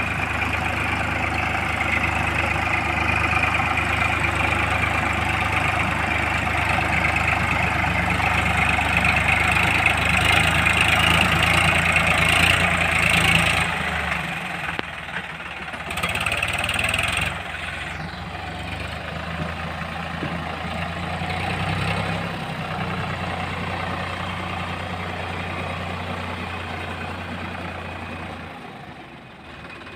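Heavy diesel engine running steadily under load. It drops back about halfway through, rises briefly, then runs lower and dips near the end.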